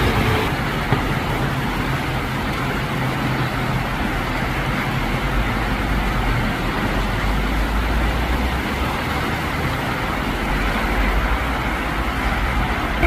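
Windstorm with rain: a steady rushing noise, with low wind rumble buffeting the microphone and a brief click about a second in.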